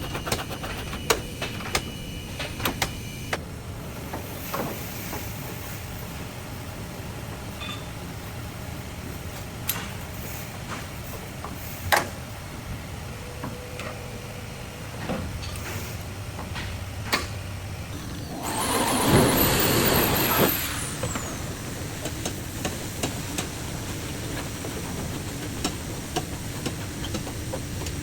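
Workshop sounds: scattered clicks and knocks over a steady background, with a burst of hissing lasting about two seconds about two-thirds of the way through.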